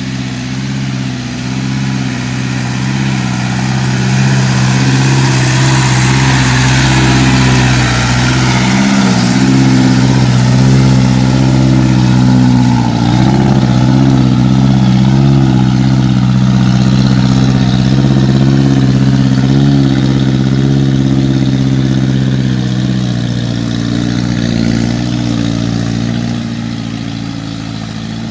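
Isuzu NPR 115 six-wheel truck's diesel engine running. It grows louder over the first several seconds, holds steady, then eases off near the end.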